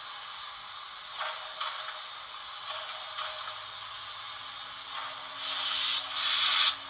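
HO scale Commodore Vanderbilt Hudson model steam locomotive running under load, its onboard sound decoder giving a steady steam hiss with separate chuffs. The chuffs come closer together and louder from about five and a half seconds in.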